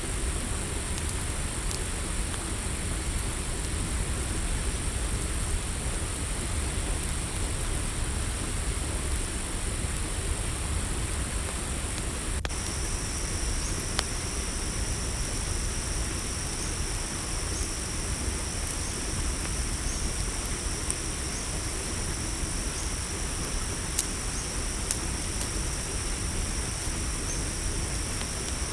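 Steady night chorus of crickets trilling high, with scattered sharp campfire crackles over a low steady rumble. About halfway through, a second, slightly lower insect trill joins in and holds.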